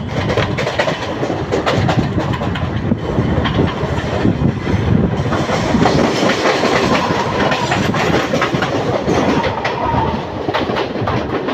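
Mumbai suburban electric multiple-unit local train running along the track, its wheels clattering over rail joints in a continuous run of clicks.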